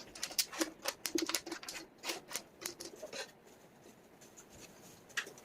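Wooden jigsaw puzzle pieces clicking and tapping against each other and the table as they are sorted and fitted, sped up into a rapid, irregular clatter. The clatter thins out partway through, and a few clicks return near the end.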